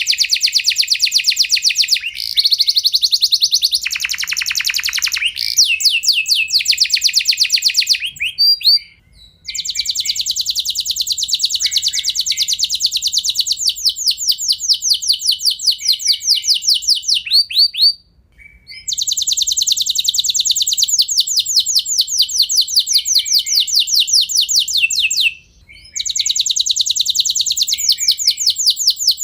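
Domestic canary singing long, fast high-pitched rolls of rapidly repeated notes. The trills break off briefly three times, and one lower-pitched roll comes in about four seconds in.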